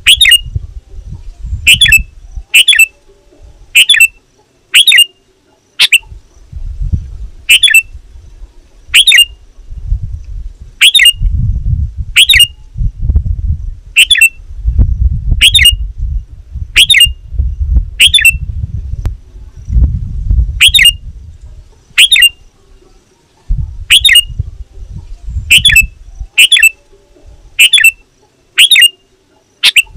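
Sooty-headed bulbul giving short, sharp calls over and over, about one a second, as a lively calling-out to rivals. A low rumble comes and goes underneath.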